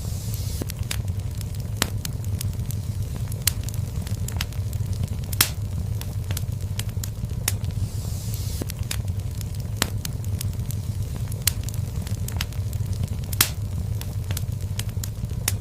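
Fireplace fire crackling: irregular sharp pops and snaps over a steady low rumble of the flames, with a couple of louder snaps and brief swells of hiss.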